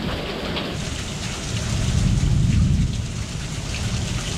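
Heavy rain falling, growing heavier about a second in, with a low rumble of thunder swelling near the middle.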